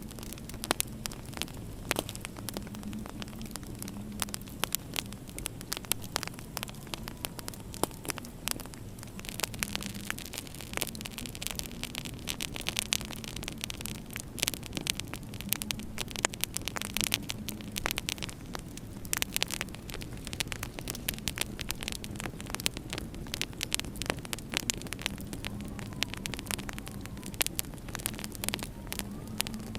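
Wood fire crackling in a fireplace: irregular sharp snaps and pops, many per second, over a steady low hum.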